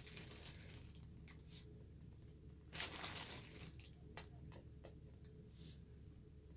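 Faint handling noises of clear quartz pieces being picked up and set down: light rustling and small clicks, with a short cluster about three seconds in and one sharp click a little after four seconds.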